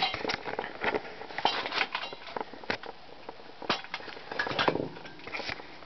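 Irregular run of light metallic clinks and clicks, several to the second: the ceiling fan's metal pull chain being handled and swinging against its switch housing.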